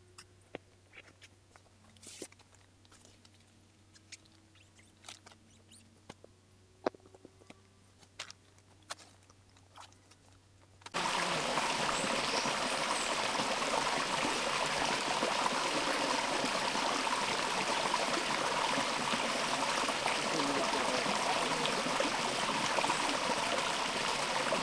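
Steady rush of flowing water from a stream or river, cutting in suddenly about halfway through after a stretch of near quiet with faint scattered clicks.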